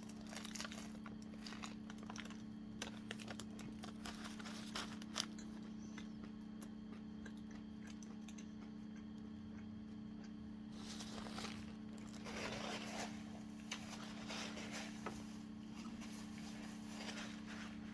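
A person chewing a big bite of a chicken breast sandwich with lettuce, cucumber and pickles: soft crunches and mouth sounds scattered through, over a steady low hum.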